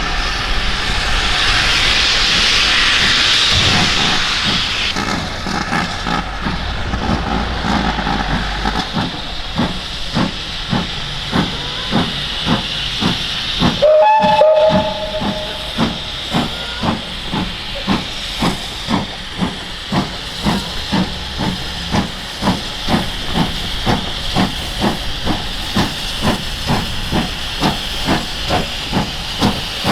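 Steam locomotive getting under way: a loud hiss of steam at first, then a steady run of exhaust chuffs, with a short whistle blast about halfway through.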